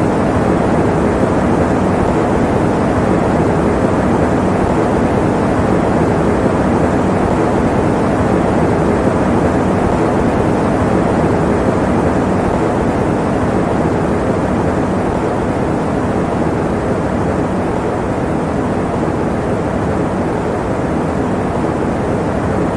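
Electric fan running steadily: an even, unchanging rush of air noise, deep rather than hissy.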